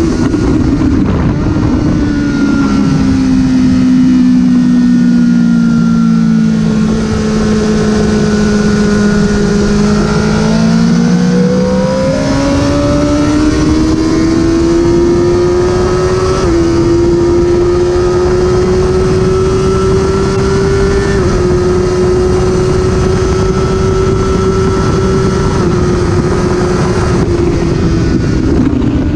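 Honda CBR1000RR's inline-four engine on track: the engine note falls for about ten seconds as the bike slows, then climbs again with two brief dips where it shifts up, holds, and eases off near the end, over steady wind rush.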